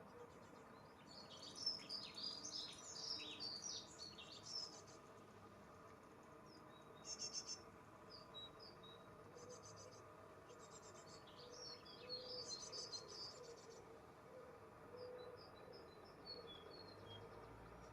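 Small birds chirping faintly: clusters of short, high chirps, with a few brief buzzy trills in between.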